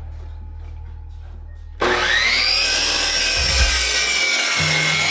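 An electric power tool starts about two seconds in, its whine rising quickly as it spins up to speed, then runs steadily on wood. Soft background music plays beneath it.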